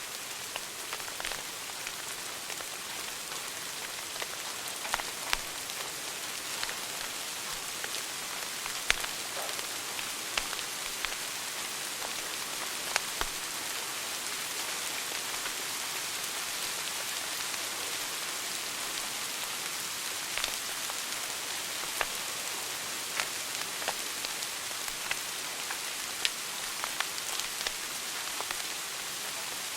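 Wood fire burning in a fireplace: a steady crackling hiss with irregular sharp pops, a dozen or so of them louder than the rest.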